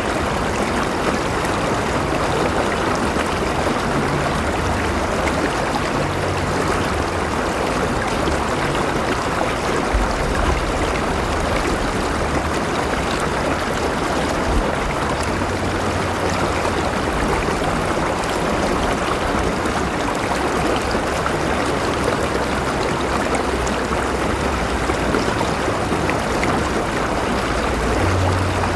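River water flowing and rushing over rocks: a steady, even wash of running water.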